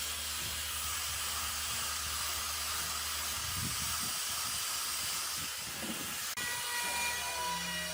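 Steady hissing from workshop equipment. After an abrupt cut about six seconds in, a power tool's motor whines at a steady pitch.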